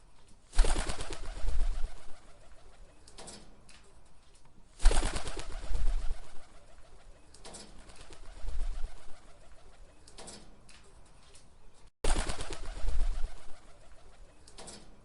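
Pigeons cooing in repeated phrases, a burst every three to four seconds, each with a low rumble under it.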